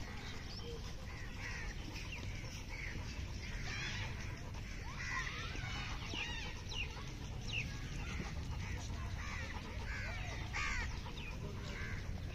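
Birds calling, many short chirps and squeaky calls repeated throughout, over a low steady rumble.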